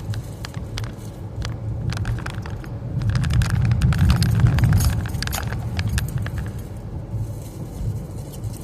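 Road rumble inside a moving car's cabin on rough, cracked city pavement, with light rattling and clicking from the car's interior. The rumble and rattling grow louder for about two seconds in the middle.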